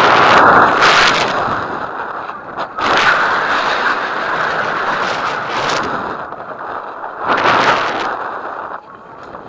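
High-power rocket motor roaring in three loud stretches, each starting abruptly, the last ending a little before the close.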